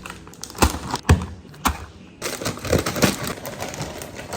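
A few sharp knocks, then a stretch of quick, irregular clattering and tapping.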